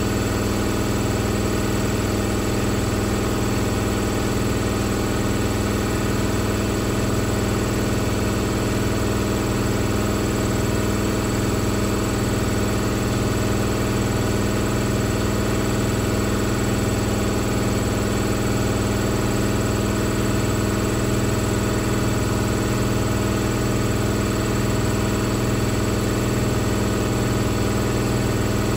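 Hoover VisionTech VTS715D21X washing machine spinning at a steady high speed, a steady motor-and-drum hum with the cabinet vibrating on a suspension described as screaming for help.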